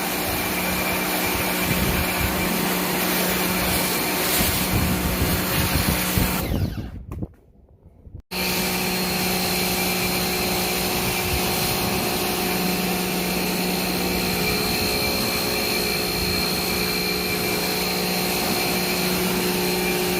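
A motor-driven machine running steadily with a hum and a high whine. It dies away about seven seconds in and starts again abruptly about a second later.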